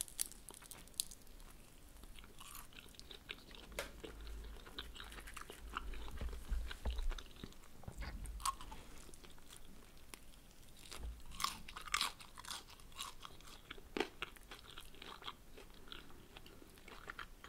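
Biting and chewing a fried spring roll, with irregular crunches and crackles of the pastry wrapper.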